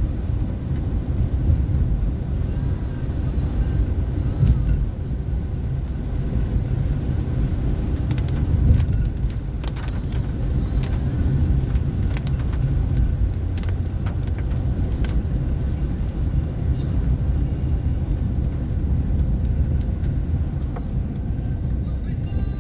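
A car driving: a steady low rumble of engine and tyre noise.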